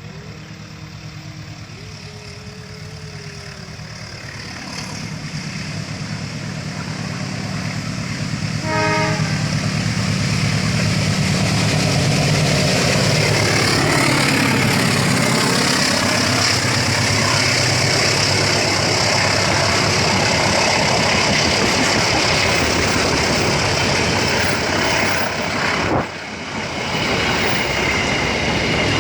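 A train approaching and running past, growing louder over the first nine seconds and then staying loud, with a short horn toot about nine seconds in.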